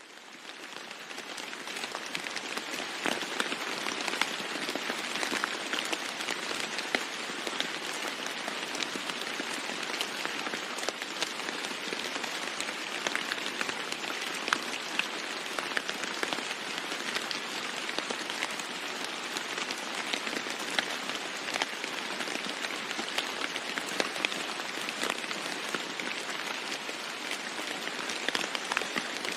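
Heavy rain falling on a roof: a dense, steady patter with many individual drop ticks, fading in over the first second or two.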